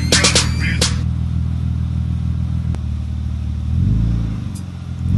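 Car engine running with a steady low hum, a few sharp clicks in the first second, and a brief rise and fall in pitch about four seconds in as it is revved.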